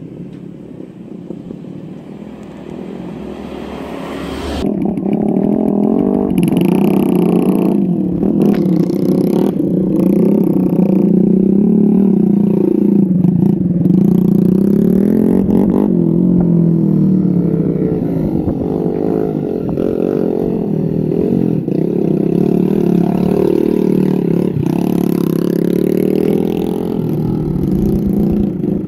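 Harvest-hauling motorbike's engine running, quieter at first, then louder from about four seconds in and holding steady with small rises and falls in pitch.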